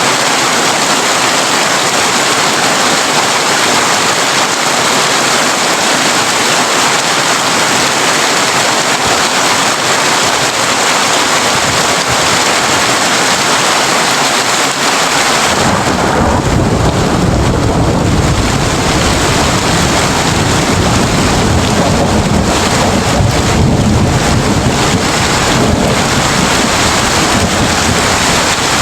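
Heavy rain drumming steadily on a tin roof. About halfway through, a long low rumble of thunder rolls in under the rain and dies away near the end.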